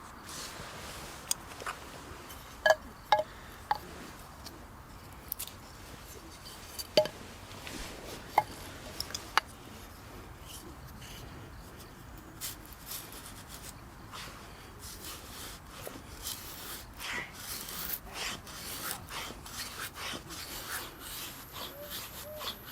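Knife shaving a stick of wood into a feather stick: rasping scrapes, with scattered sharp clicks in the first half and strokes coming thicker and steadier over the last several seconds.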